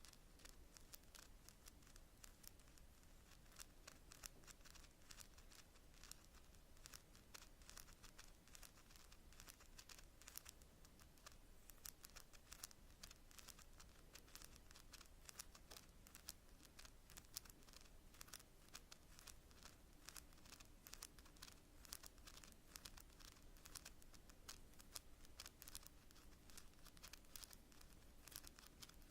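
Long natural fingernails tapping on cards: faint, quick, irregular clicks, many every second.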